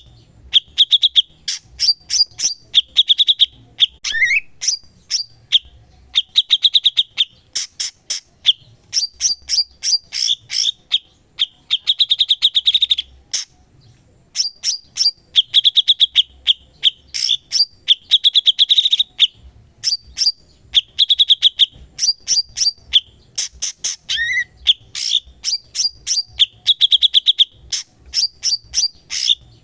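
Cucak cungkok singing continuously: fast, high-pitched rattling trills and strings of sharp chips, repeated in short phrases with brief pauses between them.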